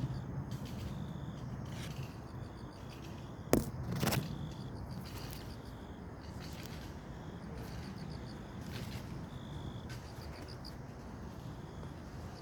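Outdoor ambience with short, high chirping trills repeating every second or so over a steady low rumble, and two sharp clicks about three and a half seconds in.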